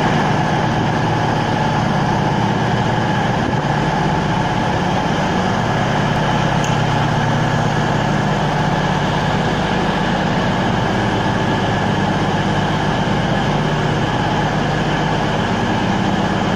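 A passenger train standing at a station platform with its equipment running: a loud, steady hum with a low drone and several held tones.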